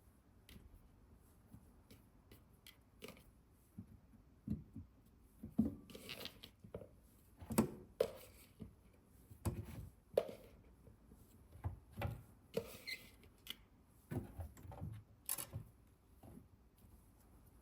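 Irregular light knocks, clicks and brief rustles of kitchen items being handled and set down, about a dozen in all, the loudest a sharp knock about halfway through.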